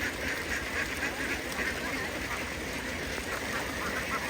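A large flock of domestic farm ducks quacking continuously, many birds calling at once.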